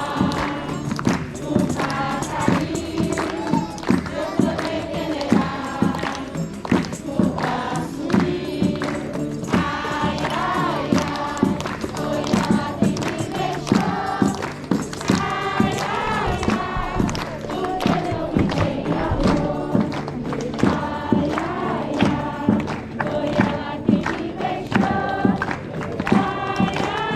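A group of voices singing a song together over a steady percussive beat.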